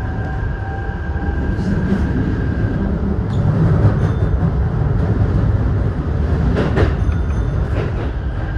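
Keisei electric train running on rails into a station, heard from the driver's cab: a steady low rumble of wheels on track, with a steady high whine for the first few seconds and a few sharp clicks about seven seconds in.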